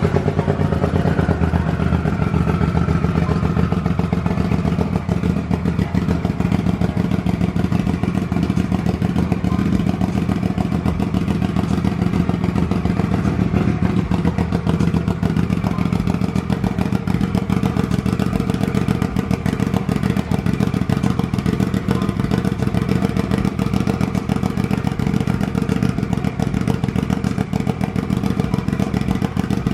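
Freshly built, turbocharged Polaris RZR 1000 twin-cylinder engine running steadily at idle, just after being started. A faint whine fades out over the first few seconds.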